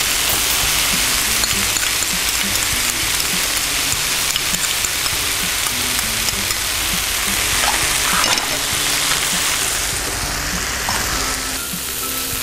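Papaya picadillo frying in oil in an electric skillet over medium heat: a steady sizzle, with a wooden spoon stirring the pan near the end.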